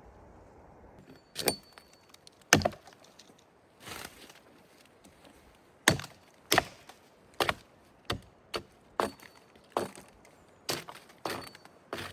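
A run of about a dozen sharp knocks, spaced irregularly about half a second to a second apart, like blows chopping or striking wood.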